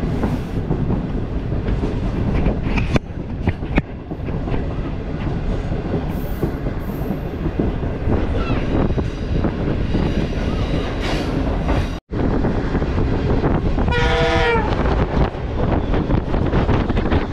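Passenger train running at speed, heard from an open carriage door: a steady rumble of wheels on the rails mixed with rushing air, with a few sharp clicks. The sound drops out for a moment about twelve seconds in, and soon after a short wavering pitched tone sounds.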